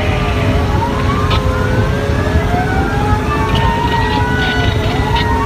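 Fire engine's siren wailing, its pitch sweeping slowly up and down, with two wail tones crossing each other. A heavy low rumble runs underneath.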